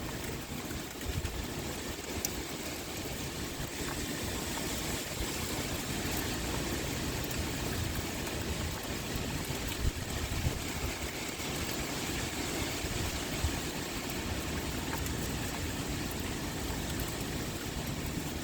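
Steady pouring rain with wind, an even hiss over a gusty low rumble, with a few sharp ticks.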